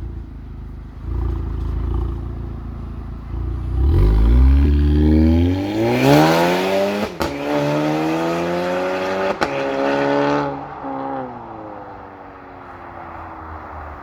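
Stage 2-tuned VW Tiguan pulling away hard on its valve-controlled exhaust, with the valves open in loud mode. The engine note rises through two upshifts, each marked by a sharp crack, then falls in pitch and fades as the car drives off.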